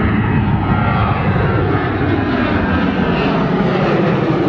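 Large airliner flying low overhead, its engines a loud steady roar, the deepest part easing slightly near the end as it moves away.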